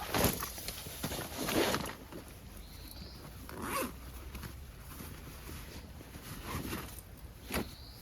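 A zipper being pulled in a few rasping strokes, two longer ones in the first couple of seconds and shorter ones later.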